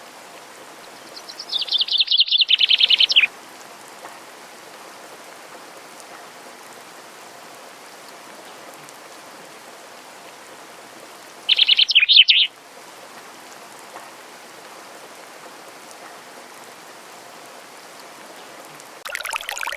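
A songbird sings a fast, slightly falling trill twice over a steady hiss of rain or running water, the first trill about two seconds long, the second about one second. Near the end a new burst of chirps begins.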